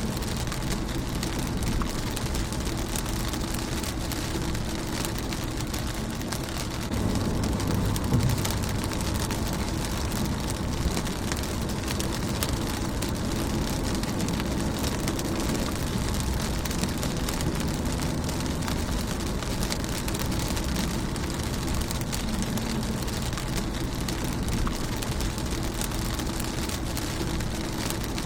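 Rain falling steadily on a car's windshield, a dense patter of drops over a constant hiss. A low rumble rises about seven seconds in and carries on underneath.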